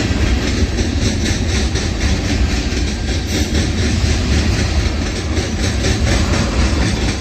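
Freight train of tank cars and covered hoppers rolling past: a steady, loud rumble of steel wheels on the rails with light, evenly repeating clacks.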